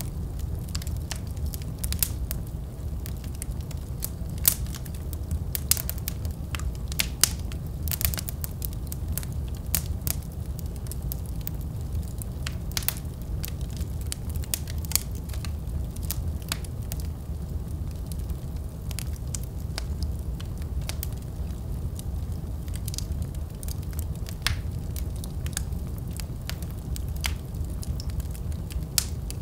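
Wood fire burning in a fireplace: a steady low rumble of flame with irregular sharp crackles and pops, busier for a few seconds near the middle.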